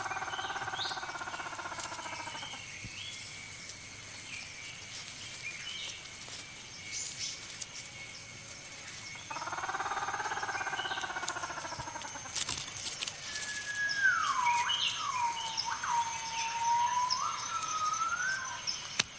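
Forest ambience: a steady high insect drone with bird calls over it, including a whistled call near the end that falls, holds, then rises again.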